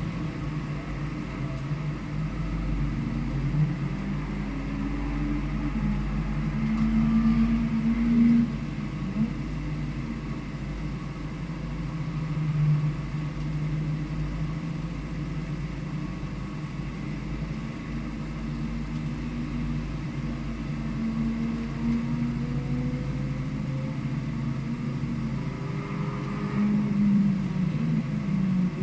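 A vehicle's engine heard onboard while lapping a short circuit, its revs rising and falling repeatedly through gear changes and corners, with louder pulls around 8 and 27 seconds.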